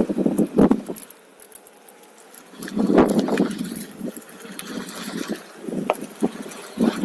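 Riding noise from a OneWheel electric board on a trail: irregular gusts of wind on the microphone and rolling noise, with scattered light rattling clicks. The loudest gust comes about three seconds in.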